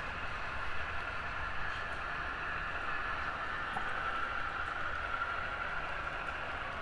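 HO scale model trains running on the layout track: a steady whine from the locomotive motors and gearing over a low rumble of wheels on rail.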